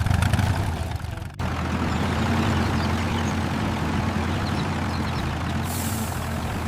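A vehicle engine running steadily, as a cartoon sound effect, with a hiss over the hum. The sound breaks off abruptly about a second and a half in and carries straight on in a similar form.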